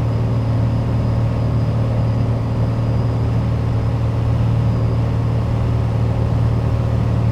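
Piper Dakota's six-cylinder Lycoming engine and propeller droning steadily in flight, heard from inside the cabin, with a faint high whine that fades about five seconds in.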